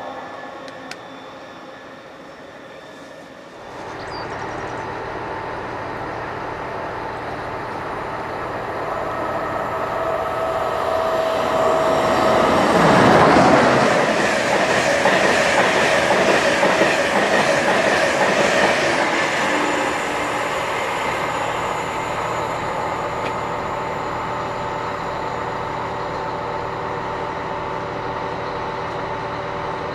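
A train running through the station: it builds up, is loudest about a third of the way in with wheels clattering over the rail joints, then eases to a steady running hum.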